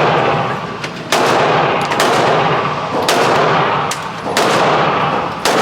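Four loud gunshots about one to two seconds apart, each followed by a long echoing tail, with a few fainter shots between them.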